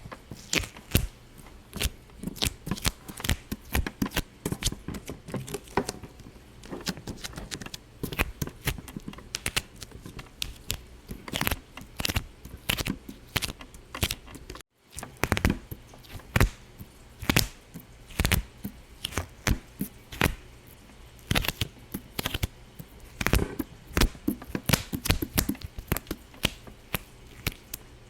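A steady stream of sharp, irregular pops and clicks, several a second, broken by a brief moment of silence about halfway through.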